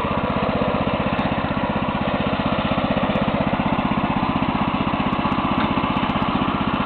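Engine of a Neva MB-2 walk-behind tractor running steadily under load, with an even fast pulse, as its rotary tillers churn the soil. The engine is new and being run in.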